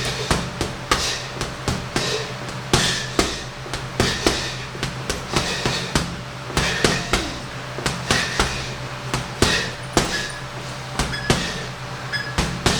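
Punches landing on a heavy punching bag in quick combinations, sharp thuds about two or three a second, over a steady low hum.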